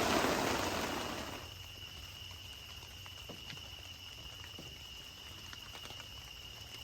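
A rushing noise, like rain or running water, fades out over the first second and a half. It leaves a steady high trill of crickets with a few faint clicks.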